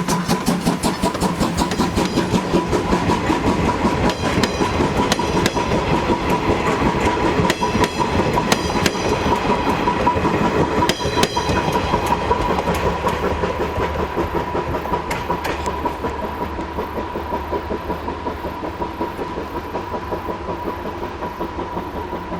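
Moka Railway steam-hauled train passing: rhythmic clatter of the wheels over the rail joints, gradually fading over the last several seconds as it moves away.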